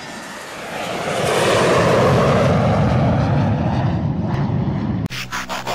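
A loud rushing roar that swells over the first two seconds and then slowly fades. About five seconds in it cuts abruptly to a stuttering, pulsing sound over a low hum.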